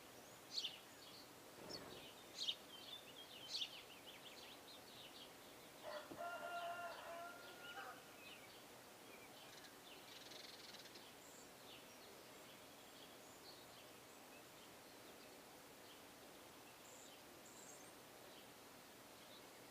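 Faint bird calls: several short, high chirps in the first few seconds, then one drawn-out call lasting about two seconds, about six seconds in, over a quiet outdoor background.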